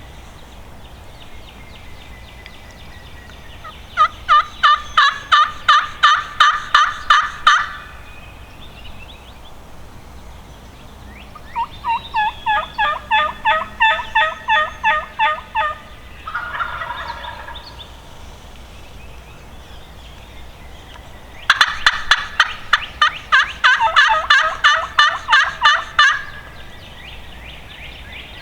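Wild turkey calling in three loud series of rapid, evenly spaced notes, each series about four seconds long at roughly four notes a second.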